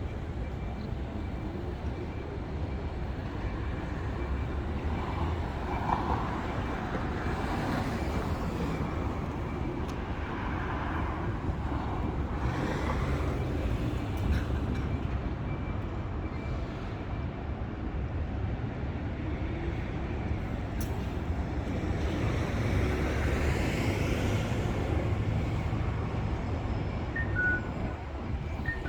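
City street traffic: a steady low rumble of road vehicles, with several passing by and swelling and fading.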